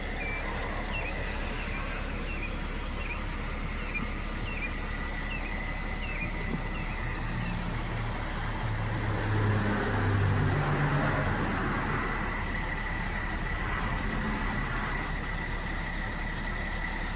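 A road vehicle passes by about halfway through, its engine tones rising and then fading, over a steady background hum. A short, high chirp repeats about twice a second in the first part.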